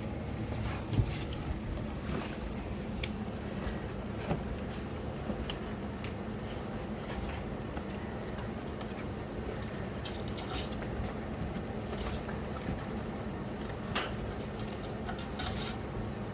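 Puppies moving about and chewing bones in their pen: scattered small clicks and knocks over a steady low hum. A sharper knock comes about a second in and another near the end.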